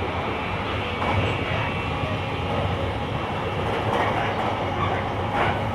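Running noise of a JR Kyushu 885-series limited-express electric train with Hitachi traction equipment, heard from the vestibule deck. A steady rumble of wheels on rail, with a few knocks from the track.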